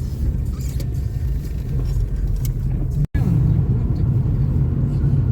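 Steady low rumble of engine and tyre noise inside the cabin of a car driving on a snow-covered road, broken by a brief cut-out about three seconds in.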